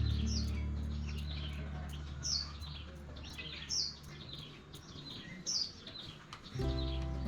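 Small birds chirping: short, high, downward-sliding chirps about every second and a half, with softer chirps in between. Background music with low held notes fades out in the first few seconds and comes back near the end.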